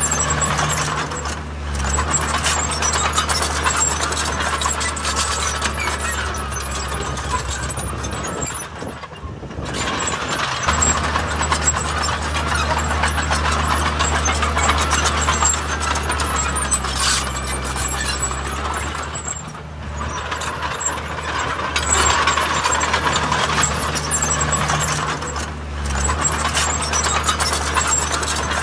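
Heavy diesel earthmoving machinery running under load, with a continuous metallic clatter over the engine's low drone. The engine eases off briefly a few times.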